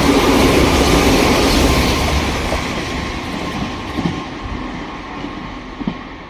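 Sanyo Electric Railway electric train passing, its rumble and wheel noise loud for the first couple of seconds and then fading away, with a few wheel clacks over rail joints as it goes.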